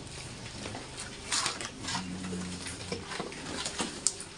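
Large White pigs snuffling and rustling, with a drawn-out low grunt about two seconds in lasting under a second, and a sharp click near the end.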